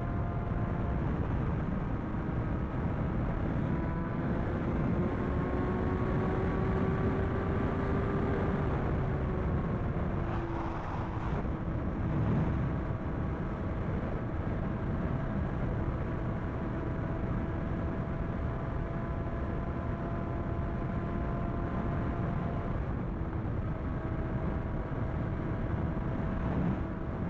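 Sport motorcycle engine running at a steady cruising pitch under heavy wind and road rush. The engine note rises slightly, falls back about ten seconds in, then holds steady.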